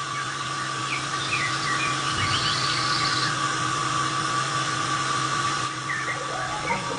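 Small electric motor running with a steady high-pitched whine, with birds chirping.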